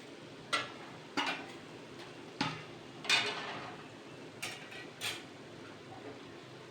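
Metal kitchen utensil clinking against cookware, about six short sharp knocks a second or so apart, as if handling vadai in a pan of frying oil.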